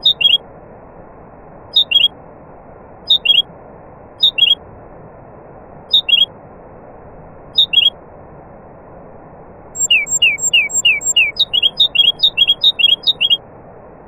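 A songbird singing: a short falling two-note chirp repeated about every one and a half seconds, then, about ten seconds in, a fast run of falling notes lasting about three seconds. A steady hiss lies underneath.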